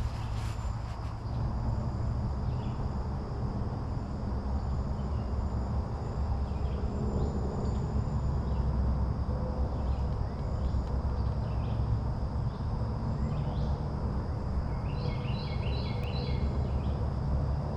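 Outdoor ambience: a steady low rumble under a steady high drone of insects, with scattered bird chirps and a quick run of chirps near the end.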